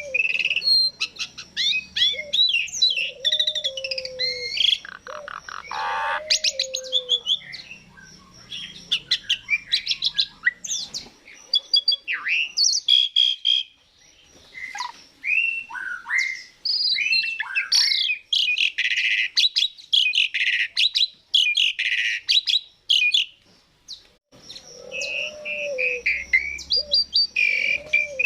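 Asian pied starling (jalak suren) singing a fast, varied song of whistles, chirps and a harsh rattle, with brief pauses between phrases.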